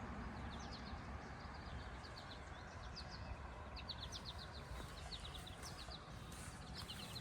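Small birds chirping in short runs of quick, high notes, repeated every second or so, over a steady low background rumble.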